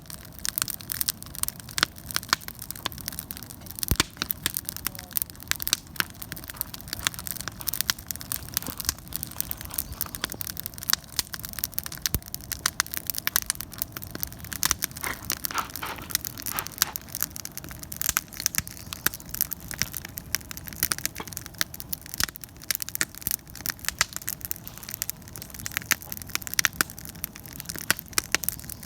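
Wood fire crackling and popping, with many sharp, irregular snaps.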